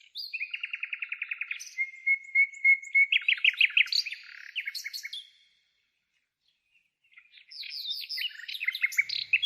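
A songbird singing. One phrase runs from a fast trill into a held whistle and then a run of loud notes; after a pause of about two seconds a second phrase begins.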